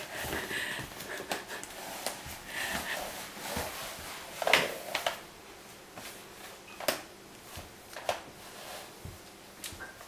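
Scattered light knocks and clicks, the loudest about four and a half seconds in, with a few brief faint snuffly sounds early on; no vacuum motor is running.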